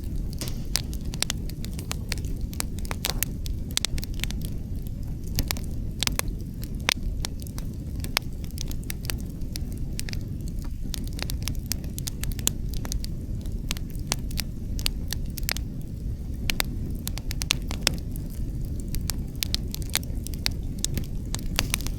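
Outdoor wood fire crackling, with many irregular sharp pops and snaps over a steady low rumble of wind.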